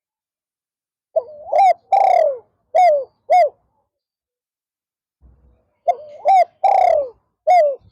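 Spotted dove cooing in two phrases, one starting a little over a second in and another near the end. Each phrase has short notes around one longer, falling note.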